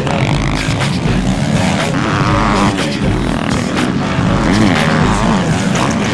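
Motocross bike engines revving hard through the corners, over background music with a steady bass beat.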